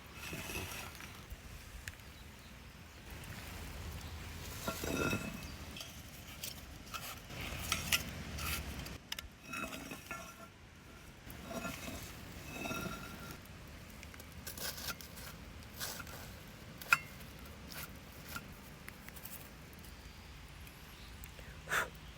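Intermittent light clinks and knocks of cookware and utensils, some with a brief ringing tone, with a sharp knock about seventeen seconds in.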